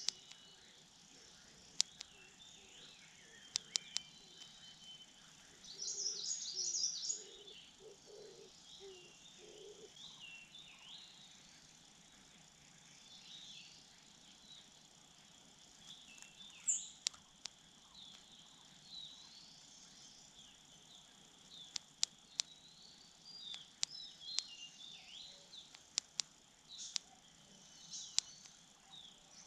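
Wild birds chirping in short high bursts, the loudest about six seconds in, over a faint steady insect trill, with scattered sharp clicks.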